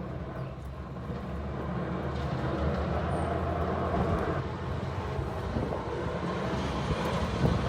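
Snowplow truck's engine running as it approaches, a steady low rumble growing gradually louder.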